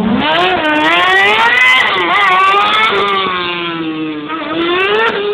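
Racing buggy's high-revving engine, its pitch climbing and dropping several times as the throttle is opened and lifted through the slalom. It settles lower for a moment a little past the middle, then climbs again near the end.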